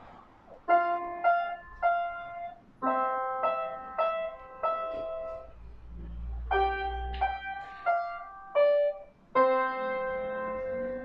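A young child playing a simple piece on the piano: notes and chords struck one at a time with short pauses between, ending on a held chord.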